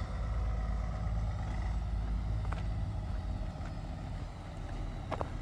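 Truck engines running steadily and low as the trucks pull in, with a couple of faint clicks.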